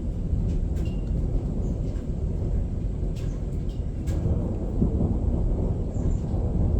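Distant thunder rumbling low and steady through a thunderstorm, with a few faint ticks.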